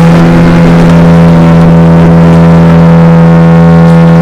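Outboard motor of a tourist boat running at a steady cruising speed, right beside the microphone, a loud, even, droning note.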